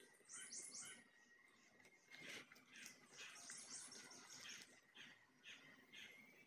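Faint bird chirping in two quick runs of short high notes, the first near the start and the second about three seconds in, over soft, scattered clicks from fingers working the food and from chewing.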